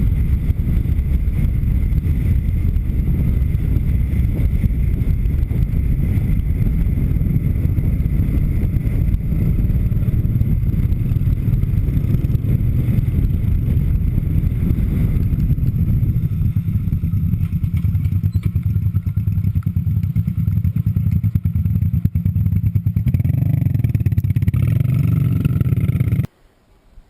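Minsk 125cc two-stroke motorcycle running as it is ridden, a steady low rumble that cuts off abruptly near the end.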